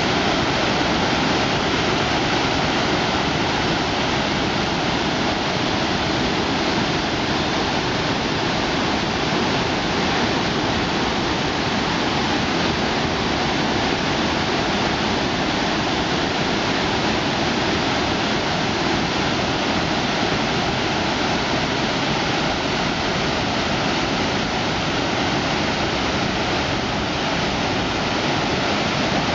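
Three-tiered waterfall pouring steadily, a loud, even rush of falling water that does not change.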